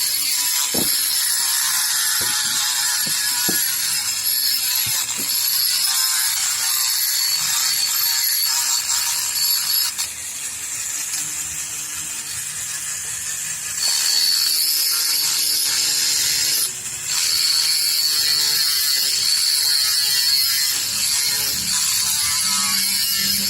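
Continuous mechanical rattling with a steady high-pitched hiss, and a few sharp knocks in the first few seconds.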